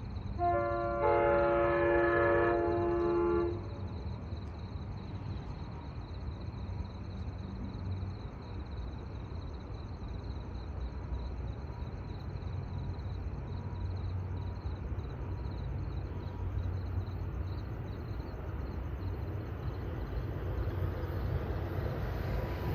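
Amtrak passenger train's multi-note air horn sounding one blast of about three seconds, then the low rumble of the train running past, growing louder near the end.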